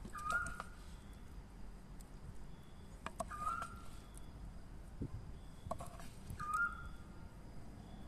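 A bird's short whistled call, one note that rises briefly and then holds, repeated three times about every three seconds. Among the calls come a few light knocks and scrapes of a wooden spoon against a clay pot.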